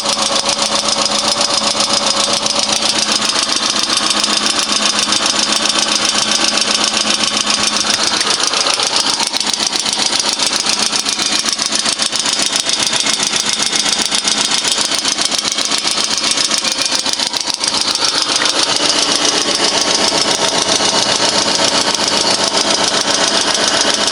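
VAZ 2112's 16-valve engine idling with a fast, even ticking clatter from the valve train: the hydraulic lash adjusters (hydraulic lifters) are knocking.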